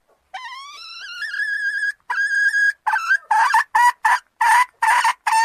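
Junglefowl calling, a lure call: a long note that rises and then holds steady, a second short held note, then a quick run of about eight short, harsh notes.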